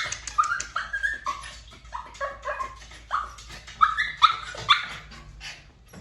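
Puppy giving a run of short, high-pitched yips and whines, about two a second, stopping shortly before the end.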